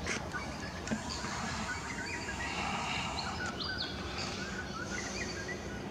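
Scattered short chirps and whistled notes of distant birds in bushland, over a steady background hiss of outdoor noise.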